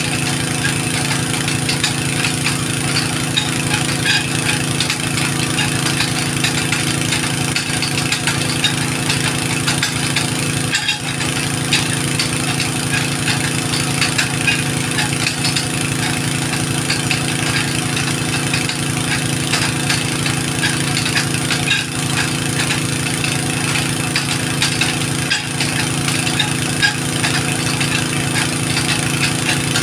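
An engine running steadily at a constant speed, with a dense fine rattle over it.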